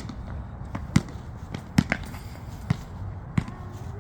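A basketball bouncing on an outdoor court: about six sharp bounces, one every second or less, two of them close together about two seconds in.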